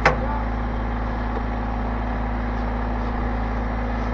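Tractor engine running steadily, with one sharp metallic knock right at the start.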